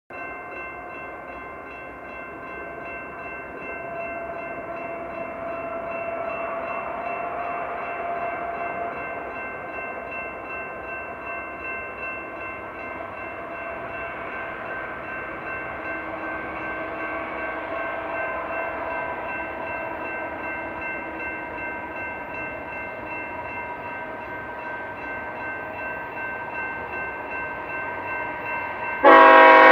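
BNSF freight train's diesel locomotives running under power as they approach, a rumble with several steady tones that slowly grows louder. Near the end the lead locomotive's air horn starts a loud blast.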